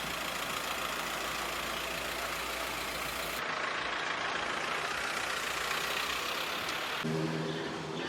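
Steady running noise of a vehicle engine, broken by abrupt cuts about three and a half seconds in and again about seven seconds in; after the second cut a low steady hum with overtones comes in.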